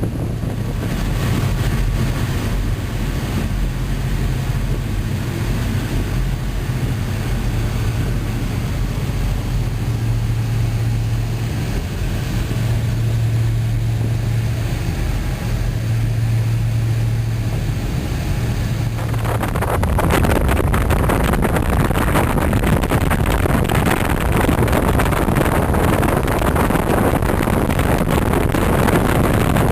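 High-speed passenger boat under way, its engines running with a steady low hum. About two-thirds through, a louder, even rushing noise of wind and water suddenly takes over.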